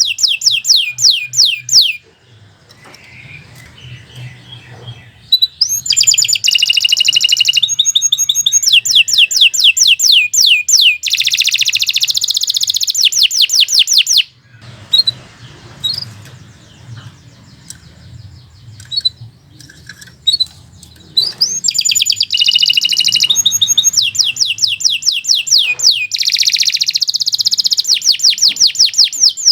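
Domestic canary singing long phrases of fast, rapidly repeated high notes and rolling trills, broken twice by pauses of several seconds with only a few short chirps.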